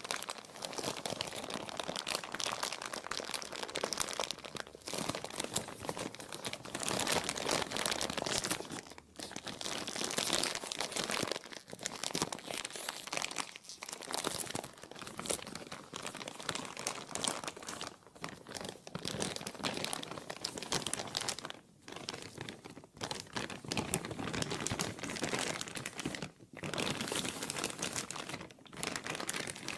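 Plastic being crumpled and crinkled, a dense continuous crackling broken by a few brief pauses.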